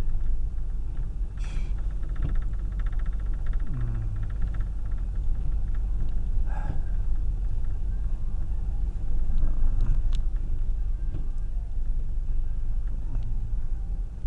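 Car running slowly in crawling traffic, heard from inside the cabin as a steady low rumble, with a few short clicks and a brief falling tone a few seconds in.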